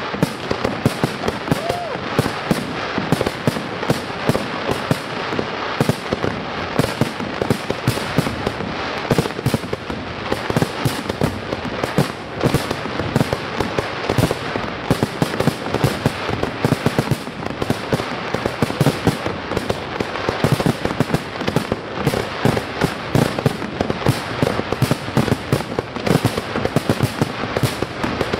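Aerial fireworks shells bursting in a dense, continuous barrage, many bangs a second with no pause.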